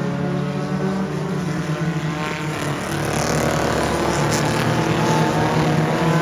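Race car engines running on a dirt oval, their pitch rising and falling as they go.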